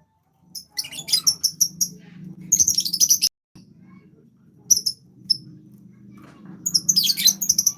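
A songbird chirping in four short spells of quick, high notes over a steady low hum, with a brief dropout about three seconds in.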